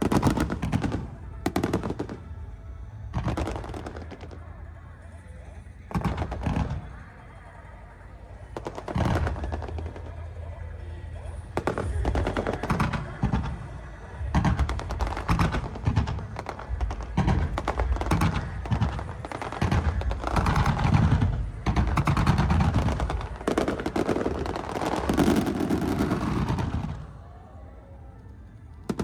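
Aerial fireworks bursting in volleys: scattered bangs at first, then a dense rapid barrage of bangs and crackles from about twelve seconds in, dying down shortly before the end.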